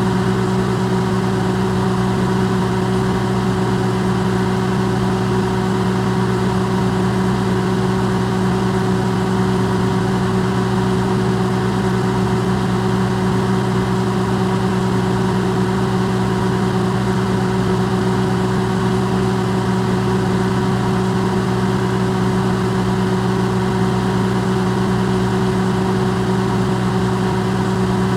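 Electrolux microwave oven running, its sound recorded close and amplified: a steady low hum with several held tones over a noisy bed.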